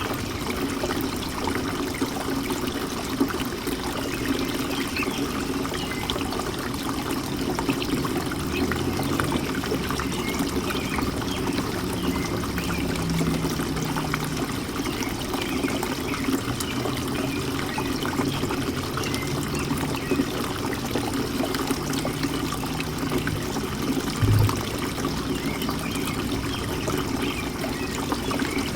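Birdbath fountain running: a steady trickle and splash of falling water. A short low thump comes once, late on.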